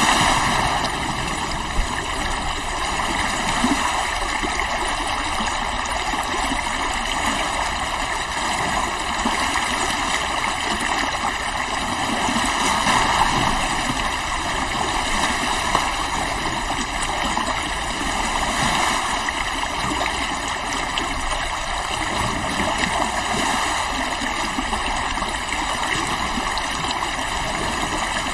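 River water flowing steadily, an even rushing with no breaks or sudden sounds.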